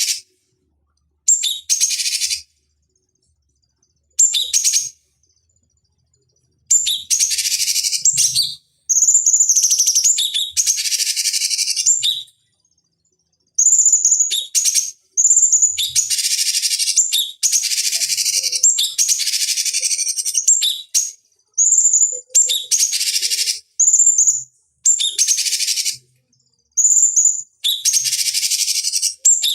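Cucak cungkok (a leafbird) singing in short repeated phrases of one to three seconds, with silent gaps between them. Each phrase opens on a clear high whistle and runs into a fast, dense chatter.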